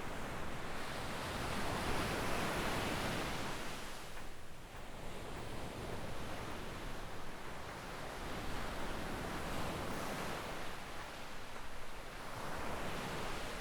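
Small ocean waves breaking and washing up a sandy beach. The surf swells for the first few seconds, eases off briefly, then builds again near the end.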